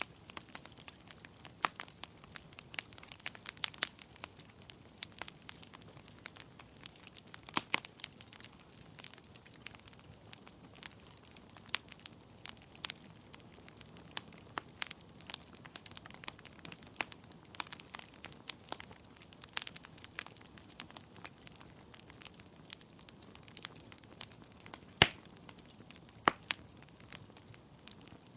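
Wood logs burning in a fireplace, crackling with irregular sharp pops over a faint steady hiss; one pop about 25 seconds in is the loudest.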